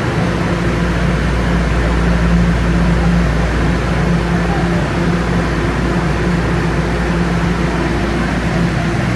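Steady hum of a Toronto Rocket subway train's ventilation fans and electrical equipment while the train stands at a station, a low rumble with a few steady tones over it.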